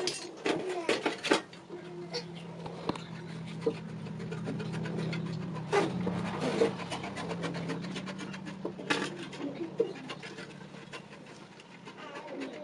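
Scattered light taps, knocks and scraping of metalwork on iron, over a low steady machine hum that starts about two seconds in and fades out about eleven seconds in.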